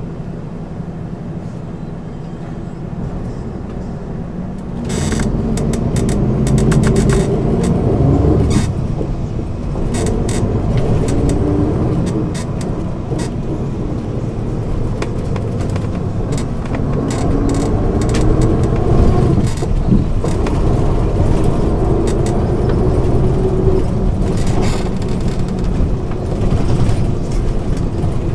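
MAN ÜL 353 bus engine idling, then, about five seconds in, pulling away and accelerating. Its pitch climbs and drops back several times as it goes up through the gears, with a burst of rattling clicks early in the pull-away.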